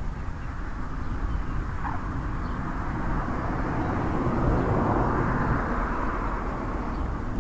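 A vehicle passing by: a steady low rumble with a rushing noise that swells to a peak about four and a half seconds in and then fades.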